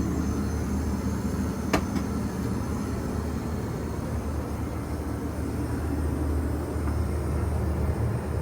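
Steady in-flight cabin noise of an Airbus A320: a low engine and airflow rumble with a hiss above it, and a single sharp click a little under two seconds in.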